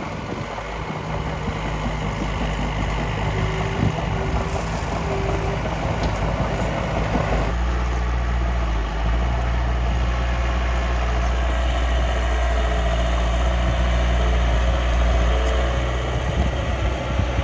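Steady engine-like running of a miniature construction machine, with a faint whine above it that steps up and down. About seven seconds in the sound changes abruptly to a deeper, stronger hum.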